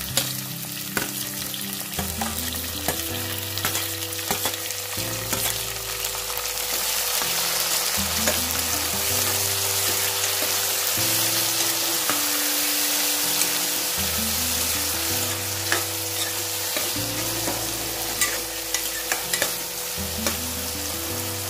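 Chopped tomatoes sizzling in hot oil in a steel pot with onions, green chillies and curry leaves, being sautéed to soften. A steel ladle stirs them, with scattered clicks and scrapes against the pot, more of them near the end.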